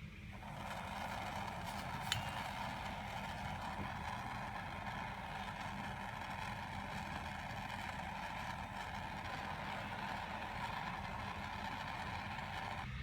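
Heat gun blowing steadily for about twelve seconds, switched on just after the start and off just before the end, shrinking heat-shrink tubing over headlight wiring connectors. A single sharp click sounds about two seconds in.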